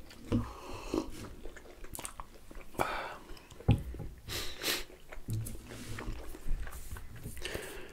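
Close-miked biting and chewing of pizza: irregular wet mouth sounds and smacks.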